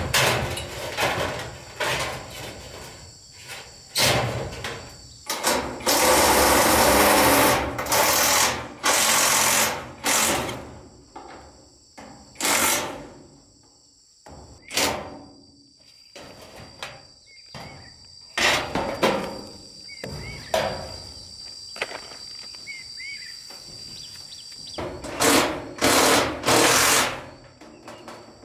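Hands-on building work: a string of irregular knocks and scraping strokes, with a longer stretch of rasping noise about six seconds in. A steady high insect drone runs underneath.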